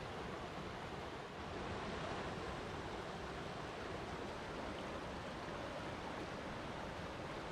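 Flowing water rushing steadily, as from a stream or small waterfall.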